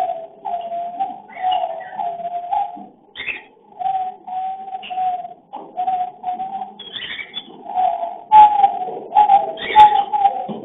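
Cockatiels calling during mating: a run of short warbling notes, about two a second, with brief higher chirps between them. The calls grow louder in the last few seconds.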